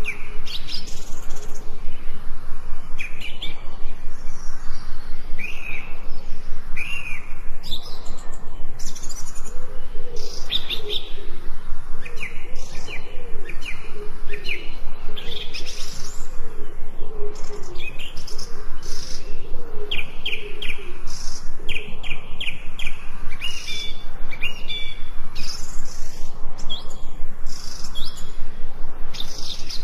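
Several forest birds chirping and singing at once, with overlapping short chirps, trills and whistles. A lower, wavering call joins in about ten seconds in and runs for some ten seconds.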